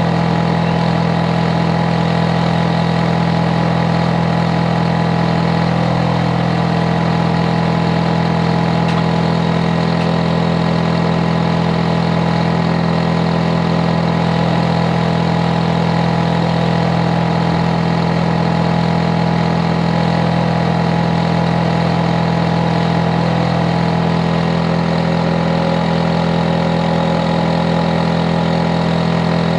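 Hitachi air-conditioner outdoor unit running: a loud, steady droning hum with a strong low tone and fainter steady whine above it, unchanging throughout. It is the unit's compressor and fan at full run, a noise nuisance to the neighbours.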